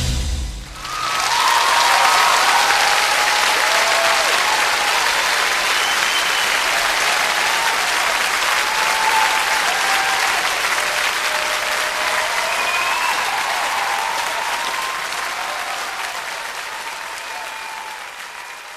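Audience applauding, with a few voices audible through the clapping. The applause swells in about a second in, after music cuts off, and fades away gradually toward the end.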